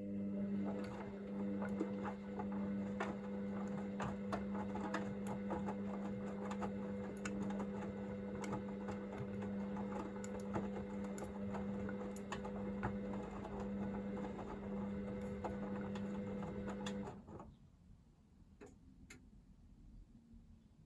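Hoover VisionDynamic front-loading washing machine tumbling its drum during the heated wash stage: the drum motor hums steadily under a scatter of light clicks and knocks from the load turning in the drum. It stops suddenly about 17 seconds in, leaving only faint sounds.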